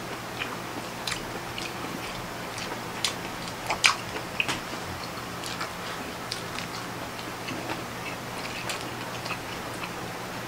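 Close-miked eating sounds: wet chewing, lip-smacking and small sharp mouth clicks from people eating octopus, shrimp and rice by hand. The clicks come irregularly, with a louder cluster about four seconds in.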